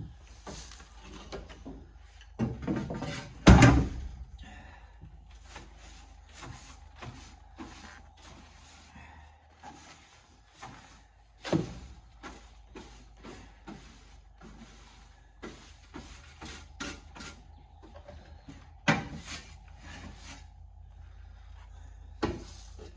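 Knocks, scrapes and rubbing of wooden parts being handled during brooder-box cleaning, with a few louder thumps, the loudest about three and a half seconds in. A faint steady hum runs underneath.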